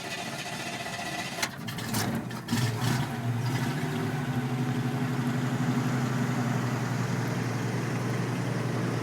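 1965 Chevrolet pickup engine starting: the engine cranks and runs roughly with a few knocks, catches about two and a half seconds in, then settles into a steady idle.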